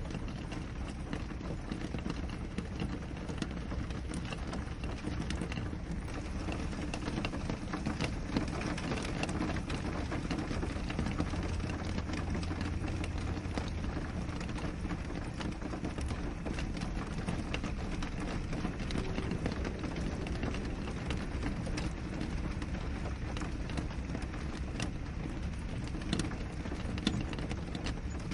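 Steady rain against a window: an even hiss over a deep low rumble, with many small sharp drop ticks scattered through it.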